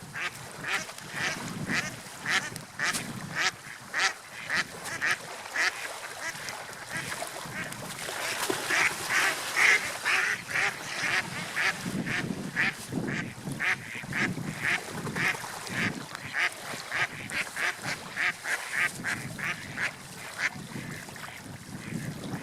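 Ducks quacking: a long run of short calls, about two a second, loudest around the middle. A low rush of wind runs underneath.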